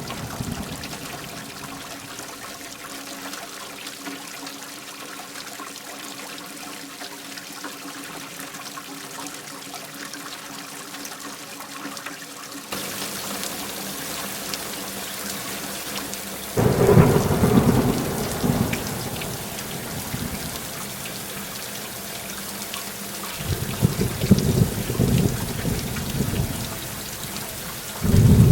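Steady heavy rain with rolling thunder. The rain hiss turns abruptly brighter a little under halfway through, a loud thunderclap breaks in just past the middle and rumbles for a few seconds, and more thunder rumbles follow near the end.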